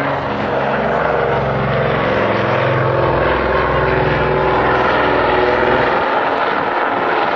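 A propeller-driven aircraft flying past with a droning, multi-toned engine note. It builds steadily to a peak about five to six seconds in, then its low end falls away.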